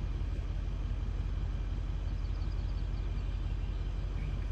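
Steady low engine hum, unchanging throughout, with a few faint high chirps about two seconds in.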